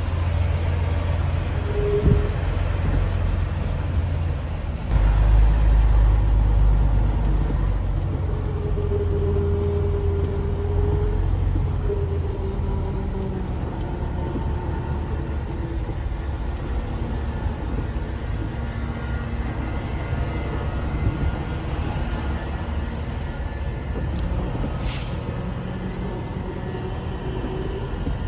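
Semi truck's diesel engine running as the rig is maneuvered, louder about five seconds in when it pulls under load. Near the end comes one short hiss of released air from the truck's air brakes.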